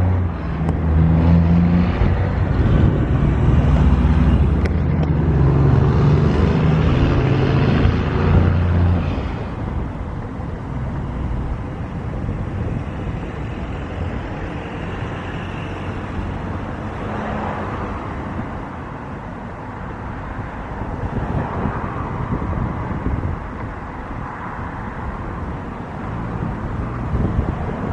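Loud engine noise with a steady low hum for about nine seconds, which then drops away to a quieter, even rumble.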